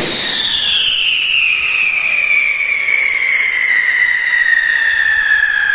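Pyrotechnic whistle: one long, loud whistle that falls slowly and steadily in pitch as the firework burns, over a hiss.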